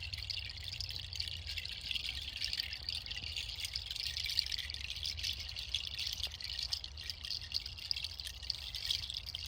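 Kenari seed pod shells of a waterfall chime clattering against each other in a dense, continuous shower of tiny clicks, like running water.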